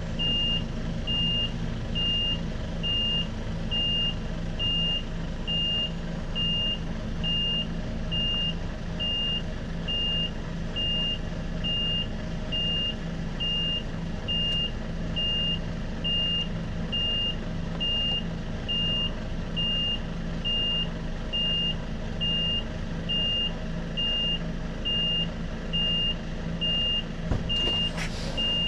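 Reversing alarm of an articulated HGV beeping steadily and evenly as the lorry backs up, over the diesel engine running at low revs. A short burst of noise near the end.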